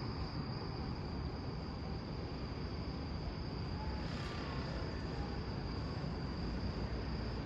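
Steady background noise with a continuous thin high-pitched tone.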